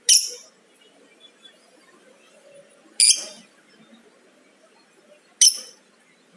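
Lovebird giving three short, high-pitched calls, a few seconds apart.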